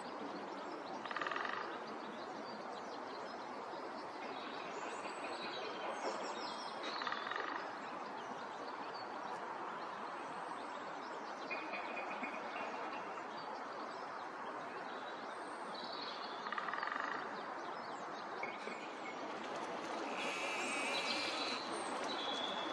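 Wild birds calling and chirping at intervals over a steady background hum of outdoor noise, with a brief busier flurry of calls near the end.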